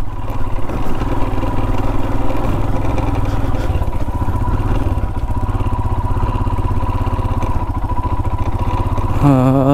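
Royal Enfield Himalayan's single-cylinder engine running steadily at low revs under load as the motorcycle climbs slowly up a rough dirt track.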